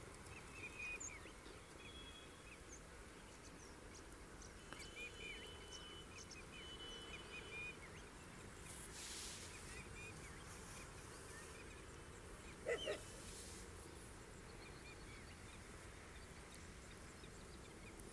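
Faint birds chirping over a low outdoor background hiss, with a short louder call about two-thirds of the way through.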